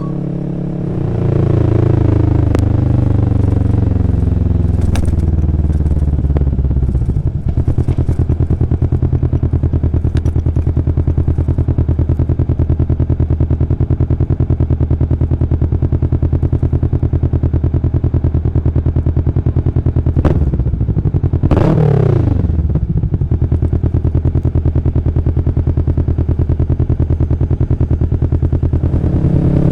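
Kawasaki Vulcan S motorcycle's 649 cc parallel-twin engine running on the road, its note falling over the first several seconds as it slows, then holding steady. A brief sound sweeps down in pitch a little past two-thirds through, and the engine note steps up near the end.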